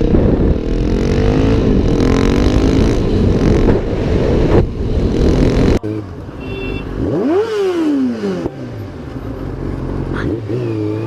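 Motorcycle engines revving. About six seconds in the sound cuts off abruptly and a single engine note rises in pitch and falls away again over about two seconds, with a short rev near the end.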